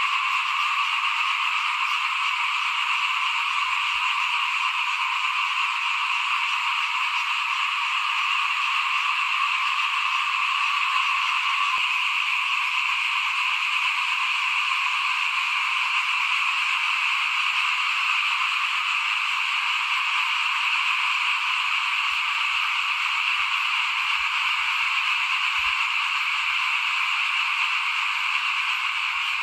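Dense, steady chorus of many small frogs calling together in a continuous din, with no single call standing out.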